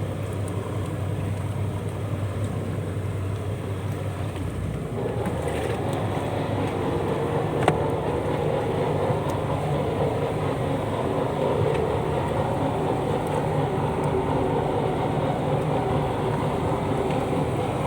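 Purse seine fishing boat's engine running steadily. About five seconds in its note shifts and it grows a little louder, as the boat is manoeuvred in reverse and forward. A single brief knock comes partway through.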